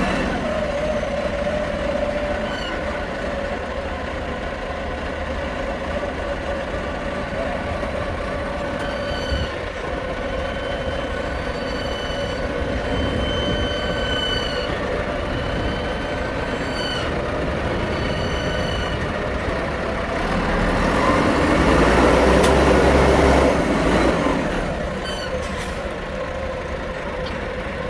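Heavy diesel machinery running steadily, with high whining tones that come and go for a second or two at a time, and a louder spell with deeper rumble about 20 to 24 seconds in.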